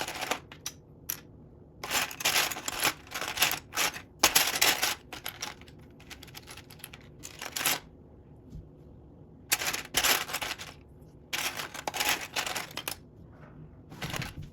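Loose plastic Lego pieces clattering and clicking as they are sifted through by hand, in bursts of rapid clicks with short pauses between.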